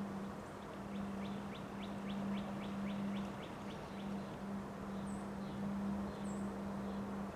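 Wind rushing with a steady low hum. A bird calls in a quick run of short repeated notes for about three seconds, and gives a few brief high chirps.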